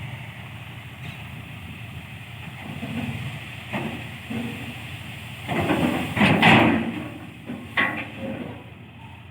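Tractor running a thresher: steady diesel engine sound under intermittent knocks, with a louder burst of rushing clatter about six seconds in.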